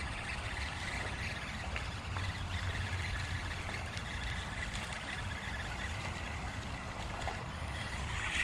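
Creek water running steadily, with a low rumble underneath.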